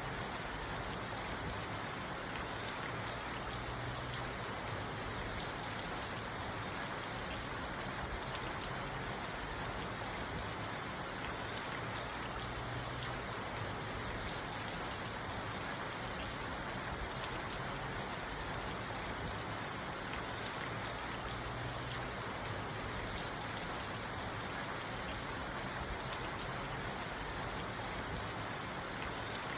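Steady rain drumming on a parked car's roof and windows, heard from inside the car, an even unbroken patter.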